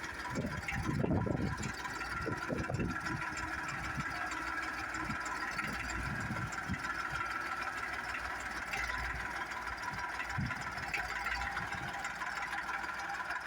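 Dexter tractor's diesel engine running steadily, with heavier low surges in the first three seconds and a few shorter ones later.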